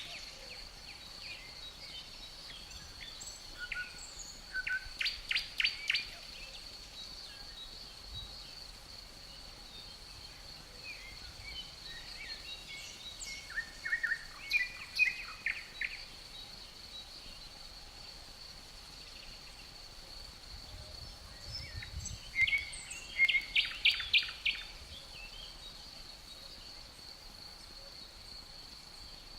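Birds chirping in three short bouts of rapid notes, over a steady high-pitched tone and faint outdoor background noise.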